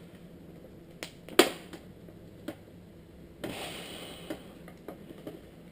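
Sharp plastic clicks and knocks, the loudest about a second and a half in, then a second or so of scraping: hands and tools working at a heat-softened car headlight, prying the lens away from the housing.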